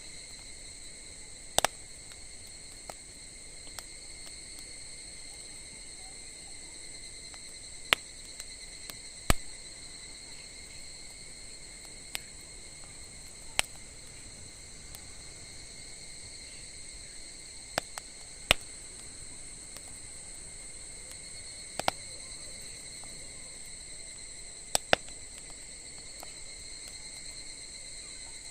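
Wood campfire crackling, with sharp single pops every one to four seconds, over a steady high-pitched trilling of insects.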